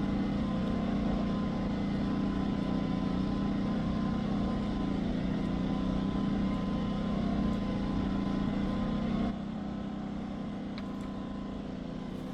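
Steady low mechanical hum with a faint steady whine above it, which drops away about nine seconds in, leaving a quieter background hiss.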